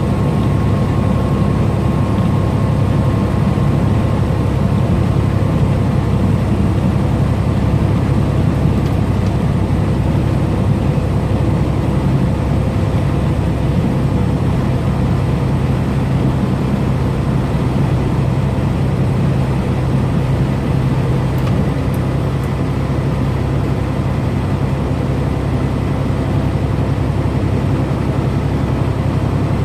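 Semi truck's diesel engine and road noise, a steady low rumble while cruising on the highway.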